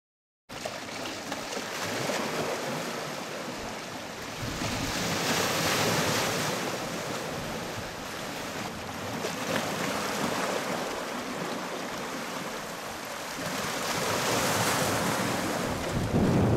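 Strong wind buffeting the microphone, a rushing noise that swells and eases in gusts, starting abruptly about half a second in.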